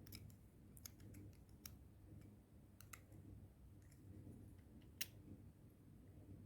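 Faint, scattered small clicks of plastic parts being handled as a door lock actuator's small electric motor is unclipped and pulled from its housing, with one sharper click about five seconds in.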